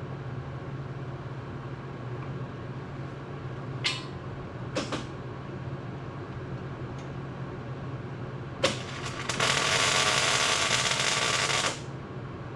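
A steady low hum with a few light clicks, then a sharp click followed by a loud, even hiss of about two seconds that cuts off suddenly, like pressurised air or gas being released.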